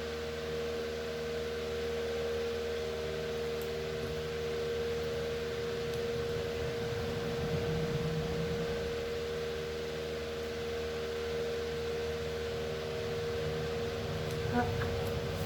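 Electric fan running steadily: a constant whirring hum with one clear held tone.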